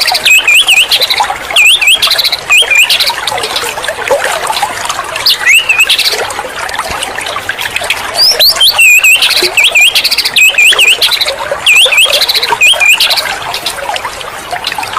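White-rumped shama (murai batu) song: fast, loud strings of hooked, looping whistles, repeated in clusters with short gaps. This is a pancingan track, played to rouse a caged shama into song.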